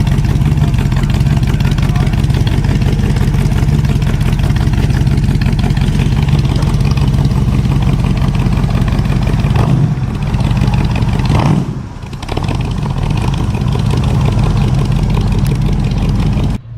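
A car engine running loud and steady with a deep exhaust rumble. It falls away briefly about ten to twelve seconds in, picks up again, and cuts off suddenly just before the end.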